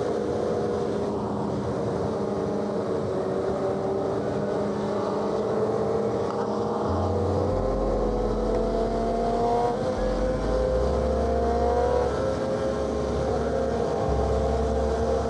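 Suzuki GSX-R600 inline-four with an M4 exhaust running at freeway cruising speed, its pitch creeping slowly upward as it gains a little speed.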